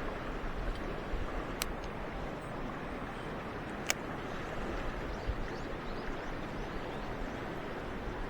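Mountain stream water rushing steadily, with two sharp clicks, one about a second and a half in and one about four seconds in.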